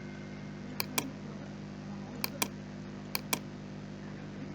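Computer mouse clicking in quick pairs, three pairs about a second apart, over a steady low electrical hum.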